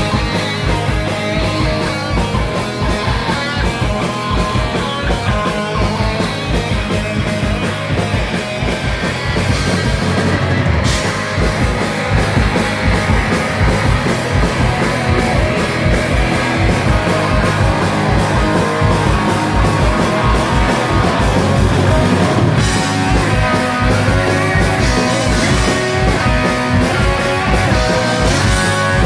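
Live rock band playing loudly: distorted electric guitars over bass and a steady drum beat, with a cymbal crash about eleven seconds in.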